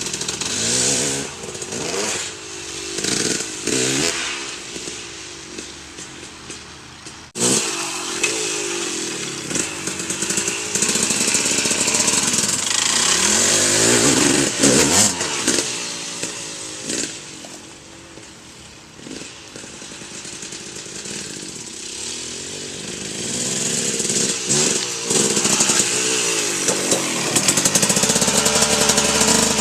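Single-cylinder off-road engine revving up and down again and again as the rider moves around the yard, fading and coming back close. The sound jumps suddenly louder about seven seconds in, drops away for a while past the middle, then grows loud again near the end.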